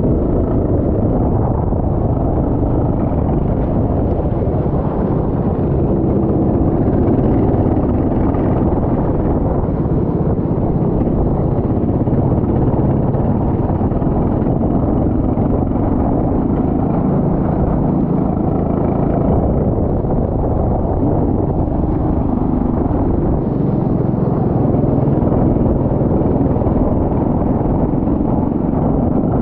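Racing kart engine running under load on track, with wind buffeting the microphone throughout.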